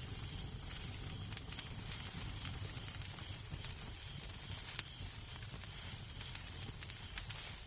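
Wood fire in a fireplace crackling: scattered sharp pops and snaps, one stronger pop about five seconds in, over a steady hiss and low rumble of the flames.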